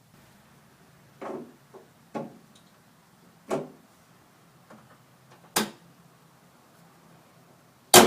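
Irregular knocks and clunks of objects being handled, about six in all, then one loud metallic clank near the end that rings briefly.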